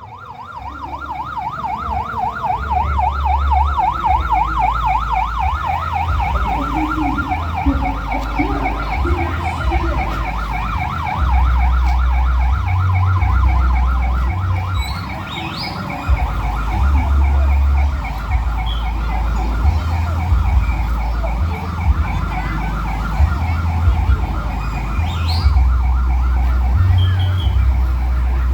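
Rapid siren-like warble over loud, deep bass notes changing every second or two, played through a 'sound horeg' parade sound system; it fades in at the start.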